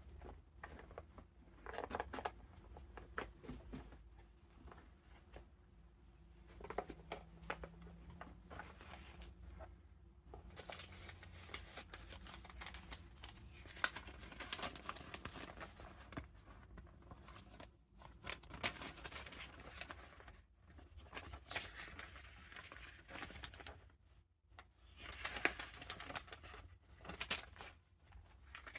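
Paper rustling and crinkling as the pages of a handmade junk journal are turned and its tucked-in paper ephemera handled, in irregular bursts with short crisp snaps.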